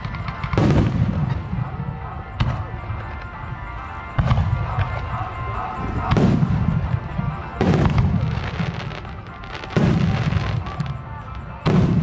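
Aerial firework shells bursting overhead: about six deep booms roughly two seconds apart, each followed by a rumbling echo and crackle. Recorded on a camera's built-in microphone at a fixed level, which blunts the booms.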